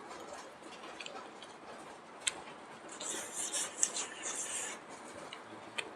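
A person eating close to the microphone: chewing and mouth noises with scattered sharp clicks, and a louder run of hissy smacking sounds between about three and five seconds in.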